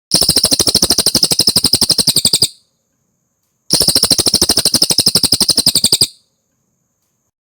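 Cililin song: two fast, evenly pulsed high trills, each about two and a half seconds long, with a pause of about a second between them. Each trill runs at roughly thirteen notes a second.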